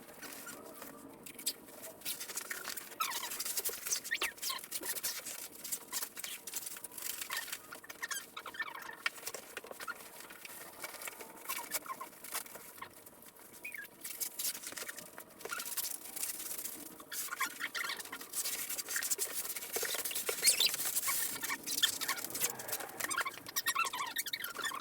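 Light packing foam sheet crinkling and rustling as it is handled and wrapped around an outboard motor, an irregular run of small crackles and clicks that grows busier in the second half.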